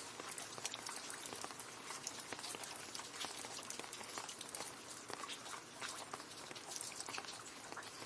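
Steady rain falling into a puddle: a dense, irregular patter of drops splashing on water.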